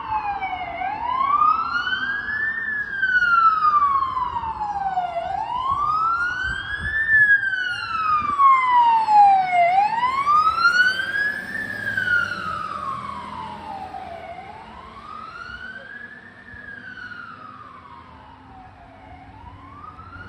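Siren of a 2022 Pierce Saber fire engine on an emergency run, wailing: the pitch rises and falls slowly about every four and a half seconds. A low rumble runs underneath, and the siren grows fainter from about two-thirds of the way through.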